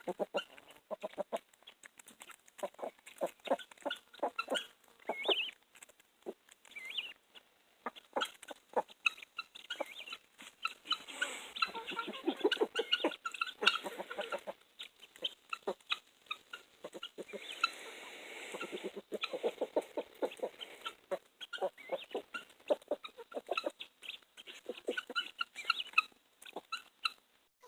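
Chickens clucking and calling as they feed on Japanese beetles, with many short sharp taps. The calls come thicker twice, about a third and about two-thirds of the way through.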